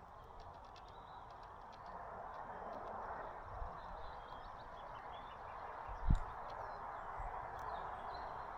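Faint, short chirps of small birds at a feeder over a steady background noise, with one low thump about six seconds in.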